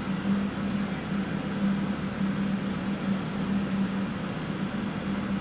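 Electric fans running steadily, a constant rush of air over a low motor hum.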